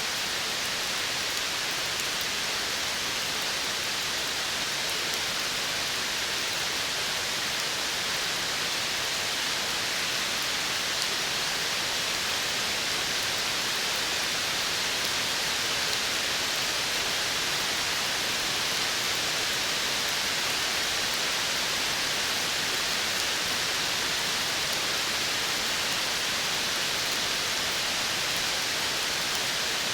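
Steady, even hiss of forest ambience, with no distinct bird calls, drops or other single sounds standing out.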